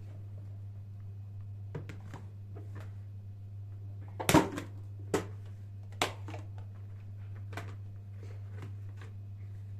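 Light clicks and knocks of objects being handled, the loudest a sharp knock about four seconds in, over a steady low hum.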